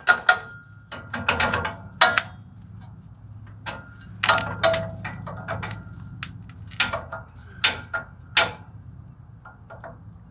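Irregular sharp metallic clicks and clanks of parking brake shoe hardware, springs and hand tools being handled and fitted, over a low steady hum.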